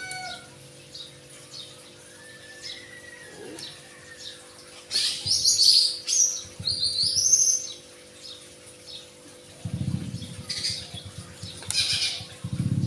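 Small songbird giving a quick series of loud, sharp chirps about five seconds in, with fainter chirps after. Near the end a low engine rumble comes in.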